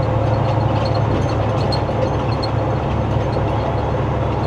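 Steady low drone of a semi-truck's engine and road noise, heard inside the cab while cruising at highway speed.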